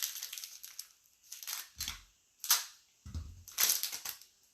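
A pack of basketball trading cards being torn open by hand: several short bursts of wrapper tearing and crinkling, with a sharp snap about two and a half seconds in.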